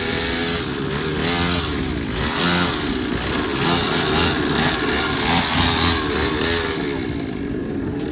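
Motorcycle engines revving repeatedly, the pitch climbing and falling with each twist of the throttle.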